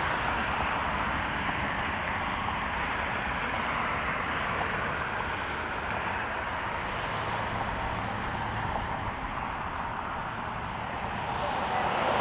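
Steady jet airliner engine noise with a choppy low rumble of wind on the microphone, swelling louder near the end.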